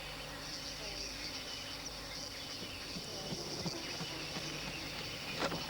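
Evening insect chorus: a steady high-pitched buzzing, with a short sharp sound near the end.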